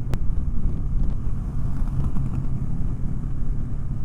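Honda Rebel 500 parallel-twin engine running steadily under way, heard as a low rumble from the moving motorcycle. There is one sharp click just after the start.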